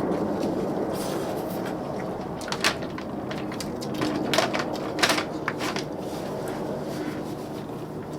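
Eating at a meal table: a few short sharp clicks and scrapes of utensils against dishes, about two and a half, four and a half and five seconds in, over a steady low background hum.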